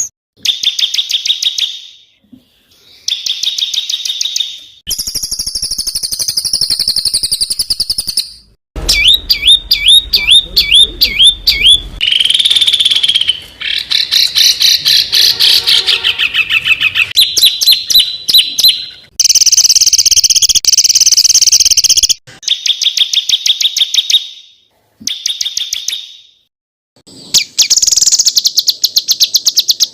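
Small songbirds giving harsh, rapid-fire chattering calls and trills, many notes a second, in a string of separate recorded clips with short gaps of silence between them. Around the middle come quick repeated up-and-down whistled sweeps.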